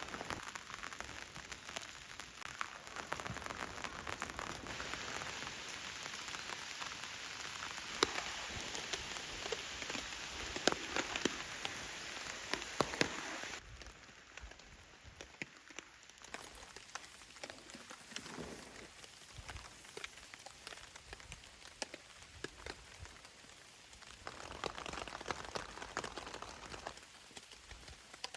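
Heavy rain falling, with many sharp close drop hits. About halfway through it cuts abruptly to lighter rain, then swells again near the end.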